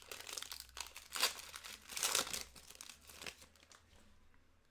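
Plastic trading-card pack wrapper crinkling as it is handled and opened, with louder crackles about a second in and again around two seconds, dying away before the end.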